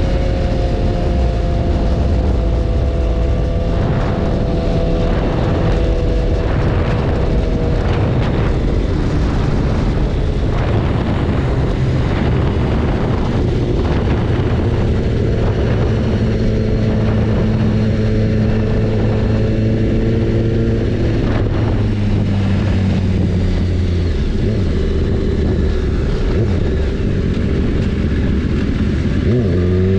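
BMW S1000RR inline-four engine running at a fairly steady speed, its pitch sinking slowly, under heavy wind and road noise. Near the end the revs climb steeply as the bike accelerates.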